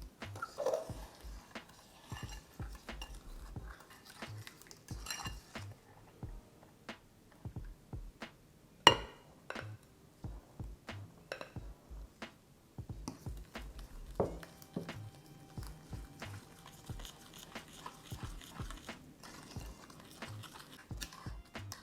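Kitchen utensils clinking and knocking against a bowl in irregular taps, with one sharp clink about nine seconds in.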